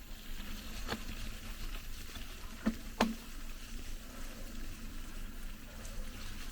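Mountain bike rolling over a rough off-road trail: steady rumble of tyres and rushing air, with three sharp knocks from the bike, one about a second in and two close together around the third second.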